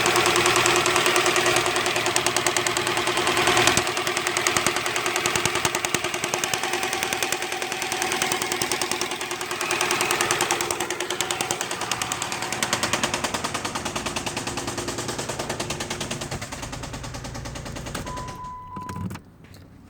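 2006 Chrysler 300's engine running with a loud, rapid, steady knocking clatter, the fault the owner is asking about. Near the end the clatter dies away and a short beep sounds.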